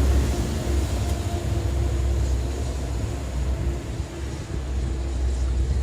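Steady low rumble of city street noise, with no distinct events.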